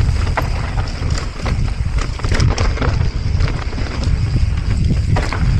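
Wind buffeting the microphone while a mountain bike rolls fast down a dirt trail. There is a steady low rumble, with frequent sharp clicks and knocks from the tyres and bike.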